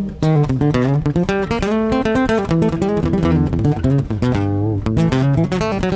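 Guitar played in the country chicken-picking style: a fast run of plucked notes sounded with a pick and fingers together (hybrid picking), with a string bend about four seconds in.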